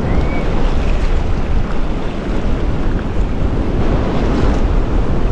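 Strong wind buffeting the microphone in a steady, loud rumble, with breaking surf underneath it.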